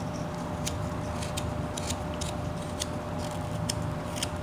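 A whittling knife taking small slicing cuts in a wooden bird carving: a string of short, crisp snicks, irregularly spaced, about two a second.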